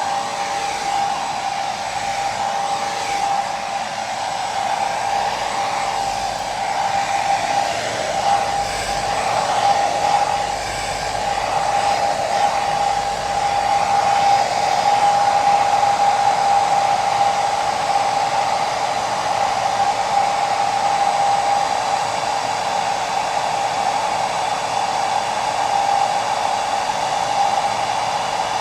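Hair dryer running steadily: a continuous rush of blown air with a steady mid-pitched motor whine over it.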